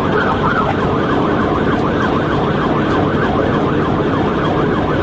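Police car siren in a fast yelp, rising and falling about three times a second, over steady engine and road noise.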